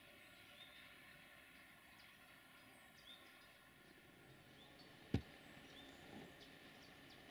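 Near silence: faint outdoor hiss with a small bird's short, rising chirps repeating every second or two. A single sharp click about five seconds in.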